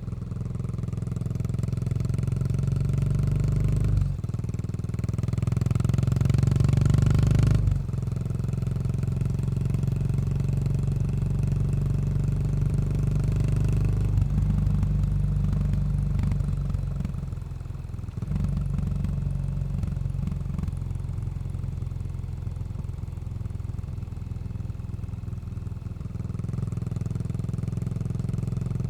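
Yamaha SR400's air-cooled single-cylinder engine running under way through a Goods tapered-cone slip-on muffler. Its note changes abruptly about four and eight seconds in, dips briefly near eighteen seconds, then runs steadily.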